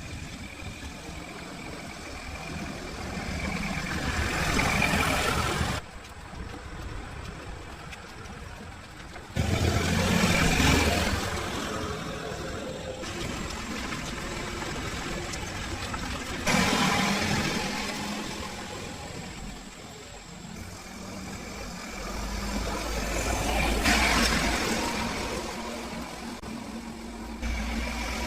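A car engine running, its sound swelling and fading several times, in short clips that cut off abruptly.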